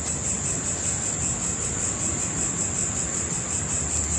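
Crickets trilling steadily in a continuous high-pitched chirring over a faint low hum.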